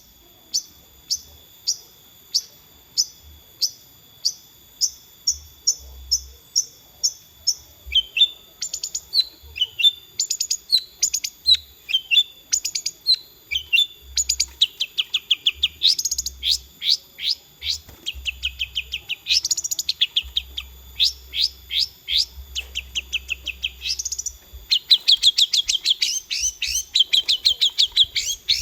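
Long-tailed shrike (cendet) singing. It starts with evenly spaced single sharp notes, then from about eight seconds in breaks into fast chattering trills that come thicker and louder toward the end.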